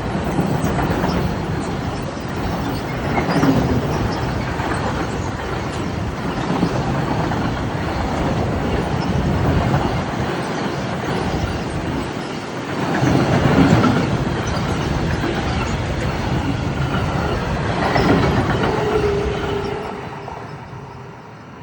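Freight train rolling past, a continuous heavy rumble of wagons on the rails. It swells a few times and fades away near the end as the train moves off.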